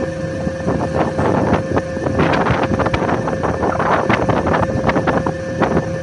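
A fishing boat's engine running steadily, with wind buffeting the microphone and many short, sharp knocks throughout.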